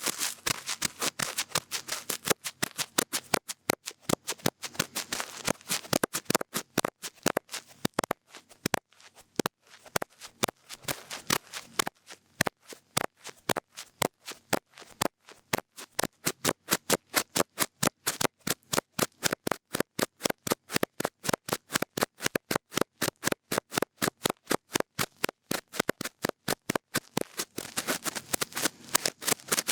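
Cotton bud rubbing and scratching at an ear-shaped ASMR microphone: a long run of short, crisp scratchy strokes, busier at first and then settling into a regular pace of about three a second.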